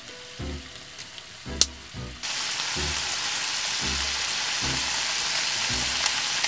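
Shrimp sizzling and frying in oil in a hot pan on a gas hob. The sizzle is faint at first, with one sharp click, then jumps to a loud, steady hiss about two seconds in.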